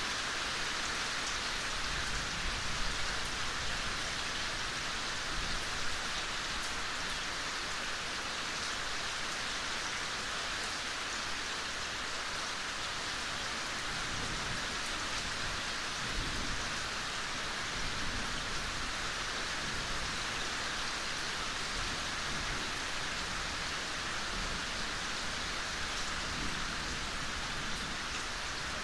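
Steady gentle rain falling, an even hiss with scattered individual drops.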